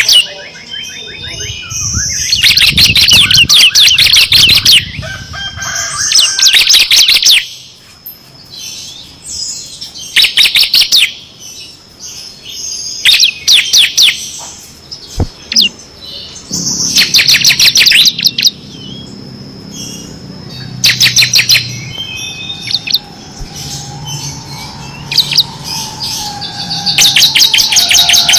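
Ciblek (bar-winged prinia) singing in repeated bursts of fast, rattling trills, each one to three seconds long with short pauses between. This is the machine-gun-like 'ngebren' song.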